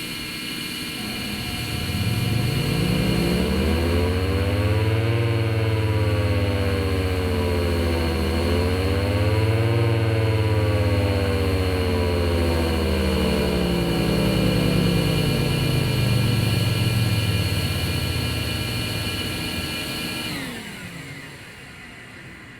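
Federal Signal Thunderbolt outdoor warning siren running with its horn removed, its blower on: a steady high blower whine under the siren's rotor tone, which winds up, dips briefly, rises again and then slowly winds down. The blower stops near the end, and without the horn the sound is not as loud.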